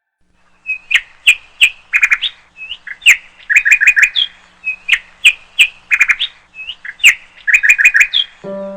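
Bird chirping: sharp, quick chirps and rapid runs of notes in a phrase that repeats about every three seconds. It stops near the end as piano music begins.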